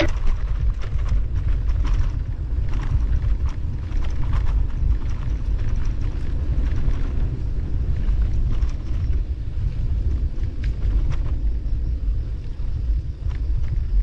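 Wind buffeting the microphone and road rumble while riding a bicycle: a steady low rumble with scattered light clicks and rattles.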